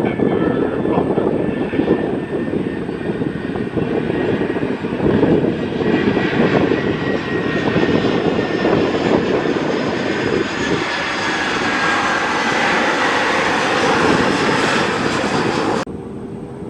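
Jet airliner engines at high power close by: a loud, steady rush with a whining tone that slides slightly lower in the later seconds, then drops off abruptly about a second before the end.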